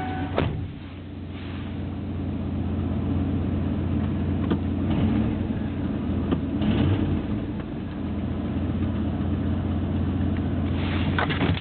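1994 Ford F250's 460 big-block gas V8 idling steadily at about 700 rpm shortly after a cold start. A few faint clicks are heard over it.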